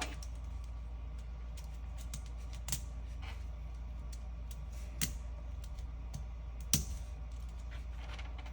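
Plastic Lego bricks being handled and pressed together: scattered light clicks, with sharper snaps about a third of the way in, in the middle, and about three quarters of the way through, over a steady low hum.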